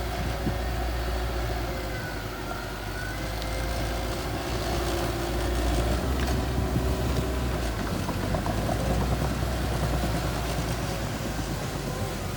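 Mini bulldozer's engine running steadily, with a continuous low hum that grows a little louder about halfway through.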